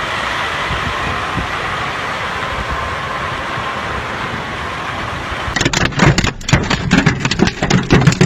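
Steady hiss of heavy hail and rain pouring down. About five and a half seconds in it cuts to a dense, rapid, louder clatter of hailstones striking a hard surface.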